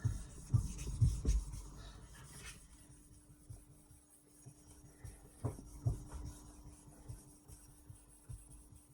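A whetstone being rubbed flat (lapped), gritty scraping strokes, loudest in the first two or three seconds and then fainter, with a couple of knocks around the middle. The stone is not flat out of the box and needs lapping.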